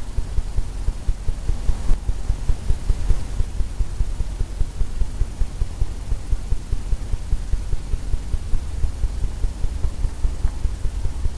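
Bristle brush tapping oil paint onto a canvas on an easel, a quick steady run of low thumps about four to five a second over a low hum.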